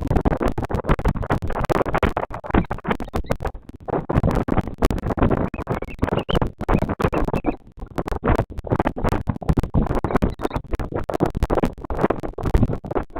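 Dense, rapid crackling and scratching noise close to a nest-camera microphone, with short wavering high-pitched calls a few times, around two, six and ten seconds in.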